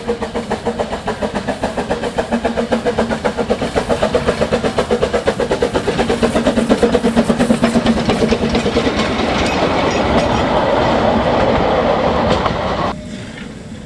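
Narrow-gauge steam locomotive working along the line, its quick, even beat growing louder and faster. The sound drops abruptly shortly before the end.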